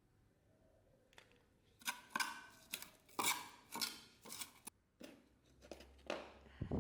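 A run of short, crisp snipping or scraping sounds of hand work, about eight strokes close together, starting about two seconds in after a quiet start and trailing off into softer handling sounds.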